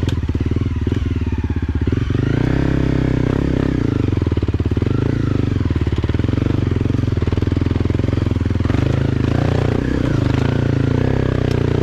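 Motorcycle engine running at low revs while climbing a trail, the pitch rising and falling a little as the throttle changes.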